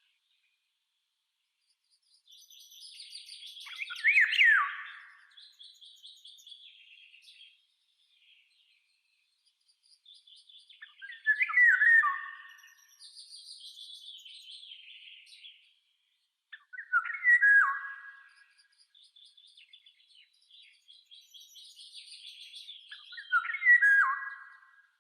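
A songbird singing: phrases of high twittering that end in a loud, clear whistled figure, repeated four times about every six seconds.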